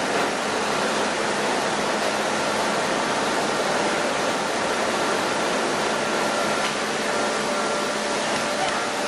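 Chili powder milling machinery running: a steady rushing noise with a few faint steady hums in it.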